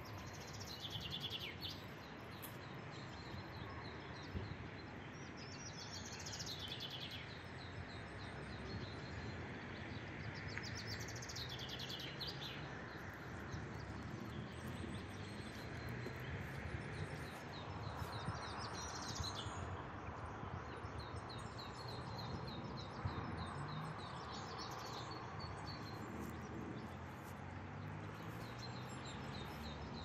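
Songbird singing outdoors: a short phrase falling in pitch comes every few seconds, over steady outdoor background noise with a faint, rapid, repeated high ticking.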